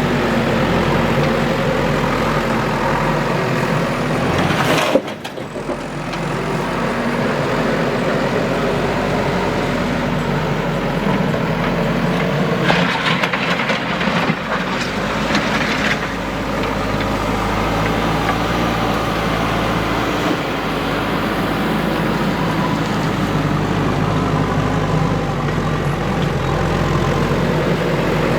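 Heavy diesel earthmoving machinery, a backhoe loader working with dump trucks, running steadily. A sharp knock comes about five seconds in, and a hiss lasts about three seconds around the middle.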